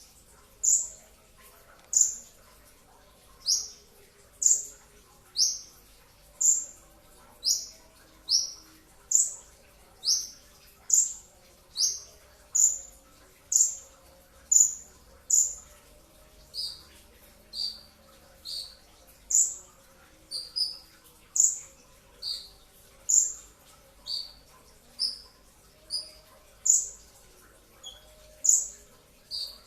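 A brown-throated sunbird (kolibri ninja) repeating a sharp, high chip call about once a second, each note dropping quickly in pitch. Some notes are higher and some lower, and a few come in quick pairs.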